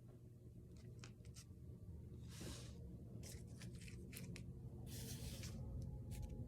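Faint scratching of a wax crayon rubbed across paper in short strokes, with a few small clicks and taps.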